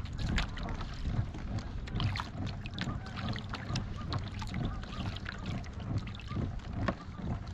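A boat trolling slowly: a low, steady motor hum with water repeatedly splashing and slapping against the hull.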